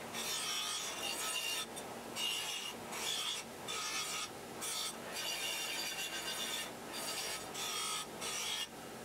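Wire wheel scouring rust off a steel air-cleaner backplate in repeated rasping passes of about a second each, with short breaks between them.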